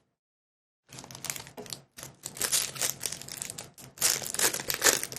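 A Pokémon booster pack's foil wrapper is crinkled and torn open, a dense crackling that starts about a second in and is loudest near the end.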